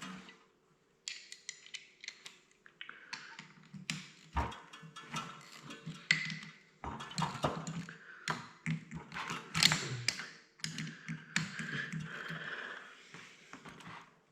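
Hand tools and metal parts clicking, tapping and scraping irregularly as a cover plate is unbolted and taken off a tractor's hydraulic pump.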